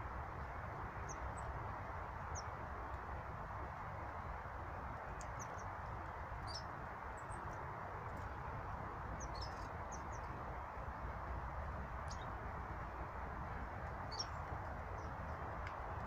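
Small birds giving short, high chirps every second or two, sometimes a few in quick succession, over a steady background rush.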